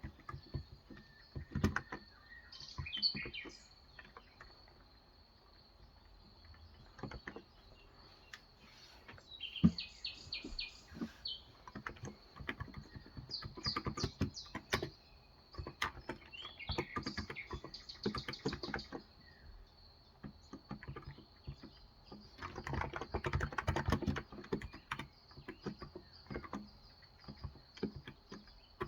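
Typing on a Cox Endeavor tenkeyless keyboard with electrostatic capacitive 35 g switches: keys clack in irregular runs, densest a little past the middle. Birds chirp in short high trills several times over the typing, against a faint steady high whine.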